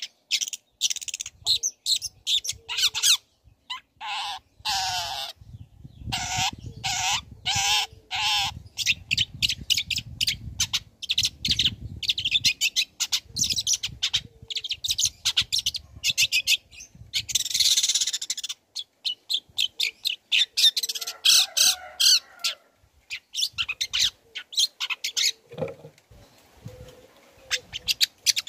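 Long-tailed shrike (cendet) singing: rapid runs of short chattering notes and high chirps, broken by harsh rasping bursts and a few clearer pitched calls.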